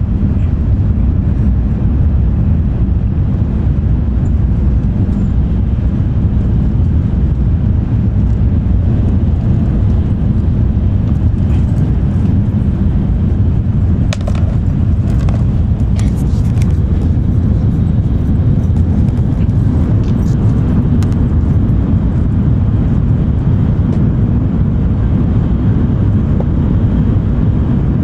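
Steady low rumble of a JR West N700 Series Shinkansen running between stations, heard inside the passenger cabin. A few faint clicks come about halfway through.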